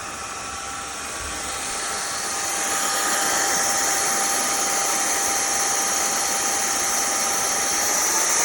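INTETURE BP10 cordless stick vacuum running, a steady motor whine over rushing airflow. It grows louder over the first three seconds as it is turned up to a higher power setting, then holds steady.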